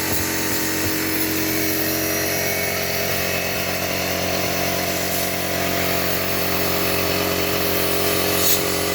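A motor running steadily in a workshop, an even machine hum that holds at one pitch.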